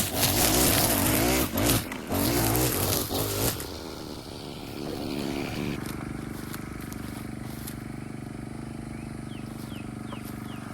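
Small petrol engine of yard equipment running loud and uneven for the first few seconds, then settling to a quieter, steady run.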